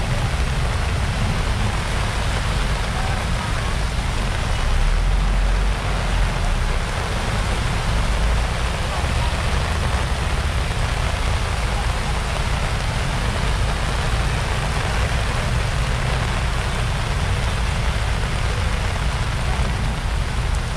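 Heavy typhoon rain pouring down in a dense, steady hiss, with a strong low rumble underneath.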